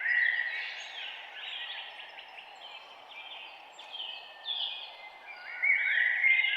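Many songbirds chirping and singing over one another in a dense morning chorus, with the calls growing louder near the end, over a steady background hiss.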